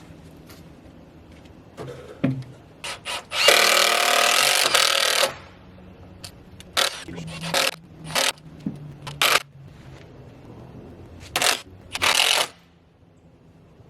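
Power drill driving screws into 2x4 lumber. It runs in bursts: one long run of nearly two seconds, several short trigger pulls, then another run of about a second near the end.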